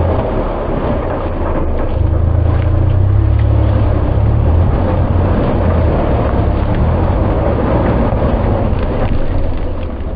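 Side-by-side UTV engine running, a loud low drone with a rough, rattly edge, easing off slightly near the end.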